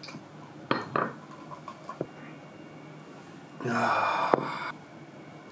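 Beer poured from a can into a glass: a few light clicks of can and glass, then a louder breathy rush lasting about a second, about three and a half seconds in.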